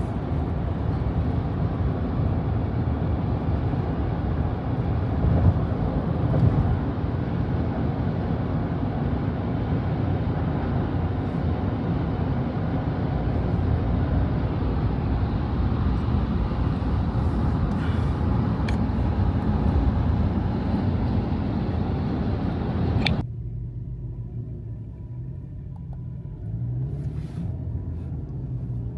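Car on the road: steady road and engine noise that drops suddenly to a quieter low rumble about 23 seconds in.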